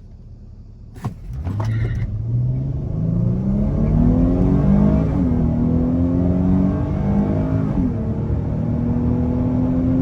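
Dodge Charger V6 at full throttle from a standstill on a 0-60 run, its engine note climbing steadily in pitch. It drops sharply at two upshifts, about five and eight seconds in, then climbs again.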